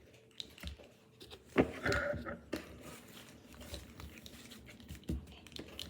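Light handling noises from a plastic candy-kit tray and its packets: scattered small clicks and rustles, with one sharp knock about a second and a half in.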